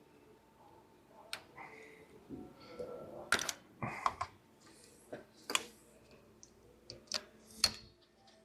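Irregular sharp clicks and knocks of parts and hand tools being handled while a piece of engine wiring harness is worked loose, the sharpest knocks about three and a half and seven and a half seconds in.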